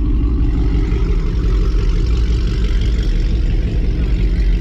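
Car engine idling close by: a loud, steady low rumble.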